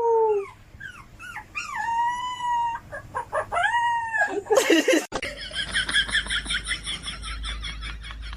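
A dog howling in several drawn-out notes that rise and fall in pitch. About five seconds in, the sound cuts abruptly to a rapid, even run of high-pitched chirping.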